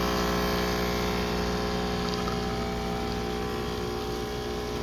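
DeLonghi EC685M espresso machine's vibration pump buzzing steadily as it pushes water through during brewing.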